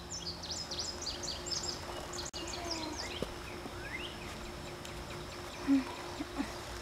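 Birds twittering in quick, high chirps for the first few seconds, then a few rising calls, over a steady low hum. A short low sound stands out about six seconds in.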